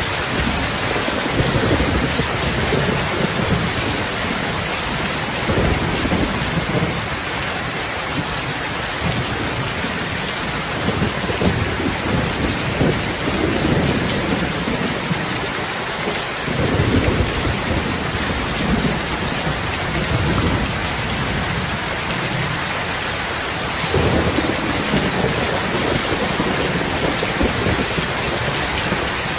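Heavy rain pouring steadily, with low rolls of thunder swelling up at intervals, one near the start, others about 6, 17 and 24 seconds in.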